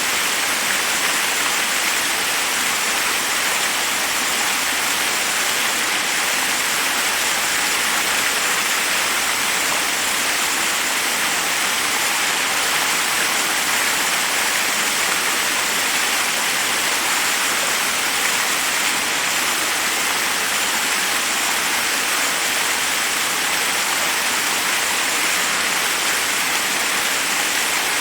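Forest waterfall: water rushing steadily over rocks, a constant hiss with no breaks.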